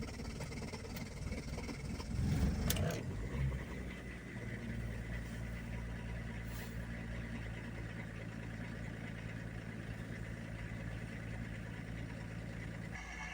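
BMW M51 2.5-litre turbo-diesel straight-six of a 1998 BMW E39 525tds starting at −19 °C: it runs roughly, catches with a brief surge about two seconds in, then settles to a steady idle. It is a hard cold start, which the owner puts down to failing glow plugs.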